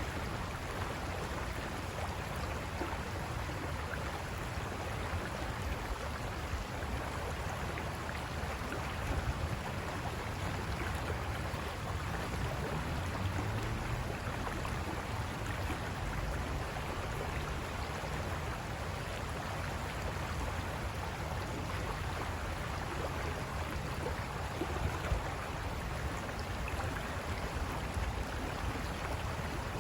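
River water rushing over rocks: a steady, even rush that holds the same level throughout.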